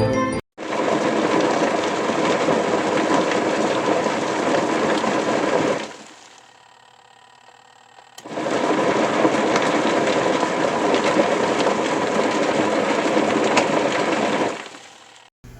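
Portable mini twin-tub washing machine's wash motor running. It stops for about two seconds near the middle, then starts again and runs until shortly before the end; the pause is the run-and-pause pattern of the wash cycle.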